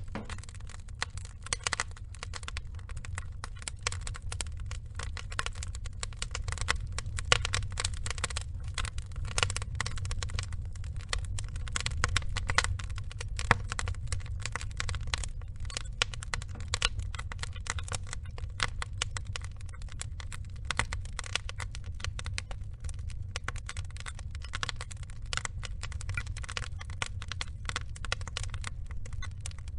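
Wood fire crackling: dense, irregular snaps and pops of burning logs, a few louder pops standing out, over a low steady rumble.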